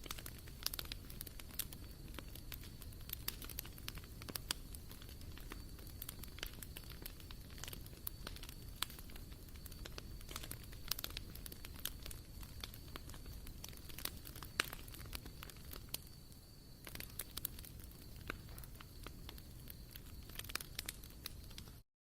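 Wood fire burning in a barbecue grill, crackling with frequent irregular sharp pops over a low steady hiss. The sound cuts out completely for a moment near the end.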